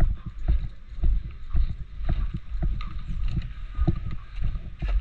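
Footsteps of a walking person, heard as a steady rhythm of dull thumps about twice a second, with the body-worn camera and gear jostling.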